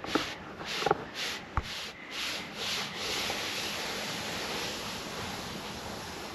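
Sled on a sand dune: about six short scrapes of sand, roughly two a second, then a steady sliding hiss from about three seconds in.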